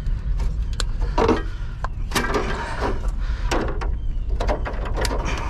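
Hands working at a degaussing coil cable, checking whether its wire is copper or aluminum: a string of sharp clicks and knocks with rustling between them, over a steady low rumble.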